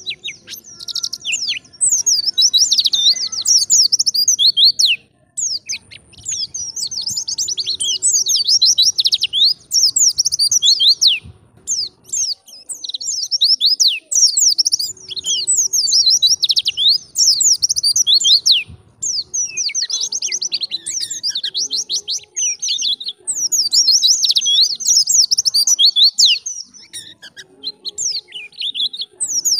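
White-eye (pleci) singing in fast, high-pitched twittering phrases, in bursts of a few seconds with short pauses between them.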